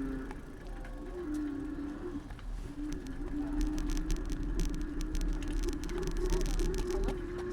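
Bicycle riding along a city street, heard from the handlebars: low road and wind rumble under a steady hum that shifts a little in pitch, with a run of rapid clicking through the middle.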